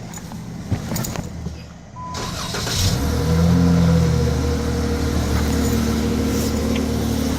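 Dodge Challenger engine starting after a few clicks, about two and a half seconds in. It flares up briefly, then settles to a steady idle on its newly fitted serpentine belt.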